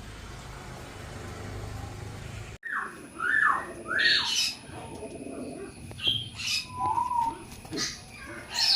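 A steady hiss, then about two and a half seconds in an abrupt switch to birds calling: a run of short calls that sweep up and down in pitch, several a second at times.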